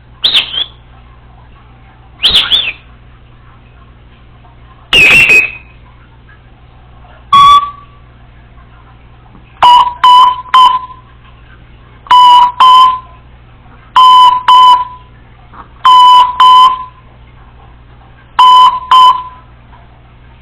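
African grey parrot giving loud downward-sweeping whistles. She then mimics an electronic beep: five bursts of short paired beeps, about two seconds apart.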